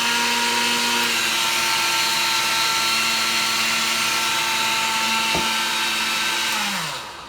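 Countertop blender motor running at a steady high speed, then switched off about seven seconds in, its pitch falling as it winds down to a stop.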